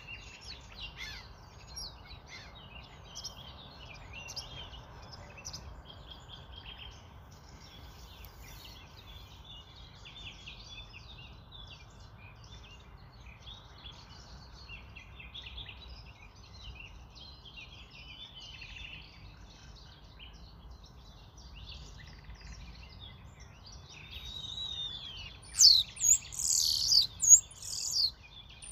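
Many small birds chirping and twittering at once, over a low steady background noise, with a run of much louder, sharp high-pitched calls near the end.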